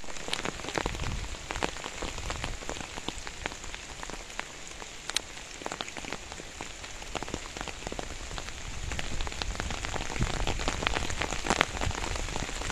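Steady rain falling, with many separate drops tapping sharply over an even hiss.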